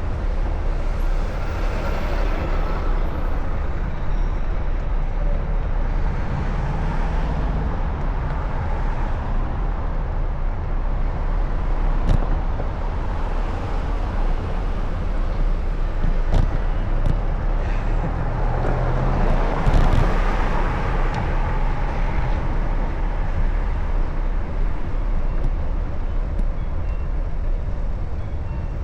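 Road traffic heard from a moving bicycle: a steady rumble of passing cars and road noise, with wind on the microphone. A louder vehicle swells past about two-thirds of the way through.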